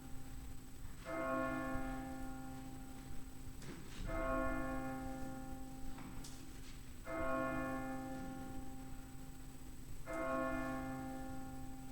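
A single church bell tolling slowly, struck four times about three seconds apart, each stroke ringing on and dying away before the next.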